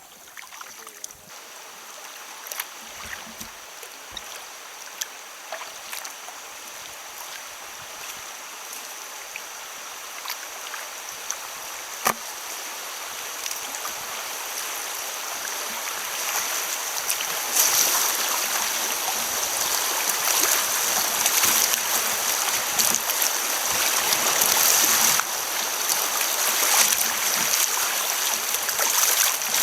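Rushing river water, a steady hiss growing gradually louder, with scattered clicks and knocks, the sharpest about twelve seconds in.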